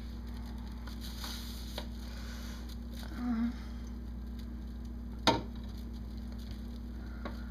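Faint rustling and handling of food containers and a plastic trash bag while a refrigerator is cleared out, with one sharp knock about five seconds in, over a steady low hum.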